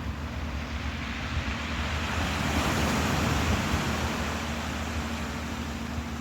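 Ocean surf washing in, with one swell of the waves building and fading between about two and four seconds in, over a steady low hum.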